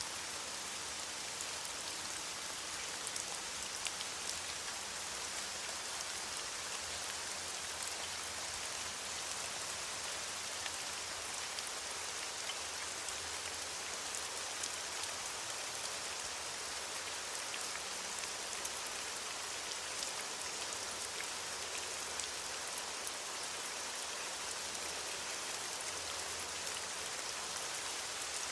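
Steady rain falling on leaves: an even hiss of rainfall with many small drop ticks.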